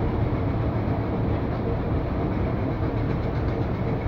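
Heritage railway carriage running along the track at a steady speed: a continuous rumble of wheels on rail, heard through an open carriage window.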